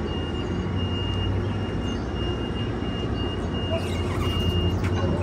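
Metrolink commuter train standing at the platform with a steady low hum, and a thin, steady high-pitched tone that stops near the end.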